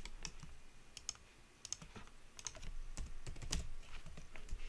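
Computer keyboard and mouse clicks: a string of separate key presses and clicks, irregularly spaced, a few bunched together about three and a half seconds in.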